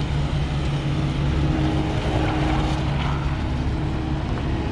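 Engine of heavy farm machinery running steadily at an even speed, a low constant hum.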